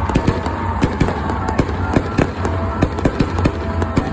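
A pack of sprint car engines rumbling low and steady, with sharp, irregular exhaust pops and cracks over it.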